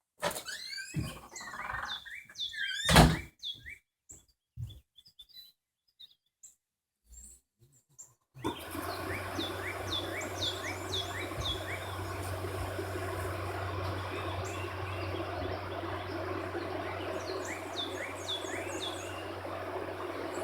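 A loud thunk about three seconds in among a few lighter knocks, then after a short silence birds chirping repeatedly over a steady low hum.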